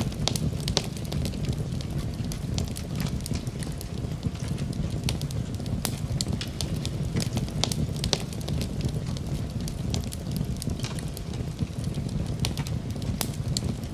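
Wood fire burning in a fireplace: a steady low rumble of flame with frequent sharp, irregular crackles and pops from the burning wood.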